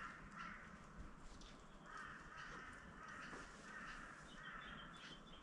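Faint crows cawing, a run of several drawn-out caws one after another. A smaller bird chirps faintly near the end.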